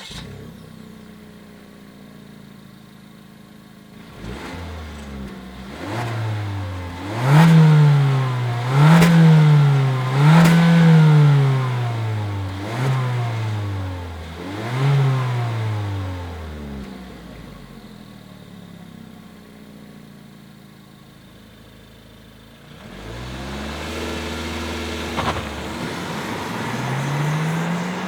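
Suzuki Vitara Turbo's 1.4-litre turbocharged four-cylinder petrol engine revving, its pitch rising and falling about six times in a row, loudest in the first few swells. It settles to a lower, quieter hum, then climbs again near the end.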